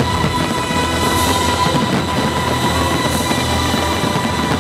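Loud music over a stadium sound system, mixed with the dense rumble of a fireworks barrage, with hissing swells about every two seconds.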